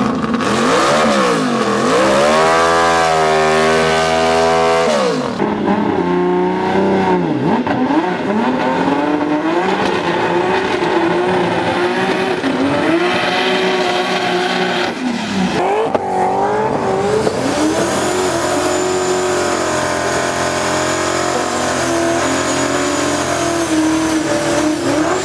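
Drag cars doing burnouts one after another: engines revving hard with the rear tyres spinning. The engine pitch climbs and falls in sweeps and is held high for long stretches.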